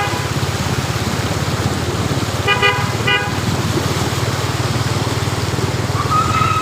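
Vehicle horns honking in street traffic over a steady low vehicle rumble: one short honk at the start, two quick honks about two and a half seconds in, and a longer, higher single horn note near the end.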